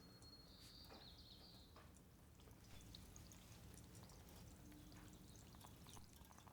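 Near silence: faint room hum with a few soft clicks and a brief high, thin squeak in the first two seconds.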